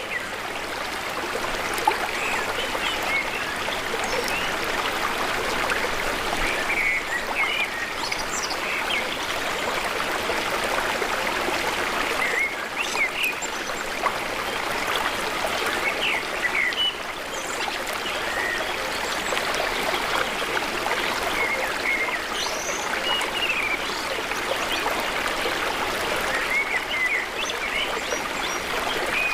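Steady rush of flowing water, with frequent short chirps and calls of small birds scattered over it.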